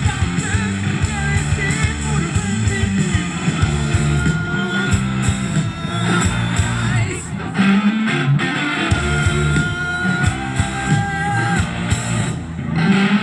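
Live rock band playing loud: electric guitars over bass and drums.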